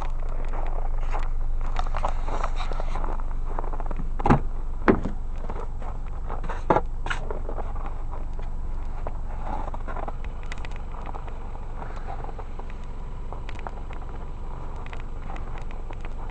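Car engine idling steadily as a low hum, with three short sharp knocks about four, five and seven seconds in.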